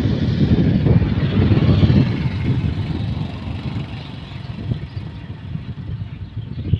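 Wind buffeting the microphone: an uneven, gusty low rumble that eases off about halfway through.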